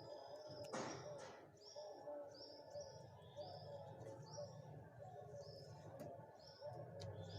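Faint bird calls: a short high note repeating about once a second, with fainter lower notes between and a brief noisy rush about a second in.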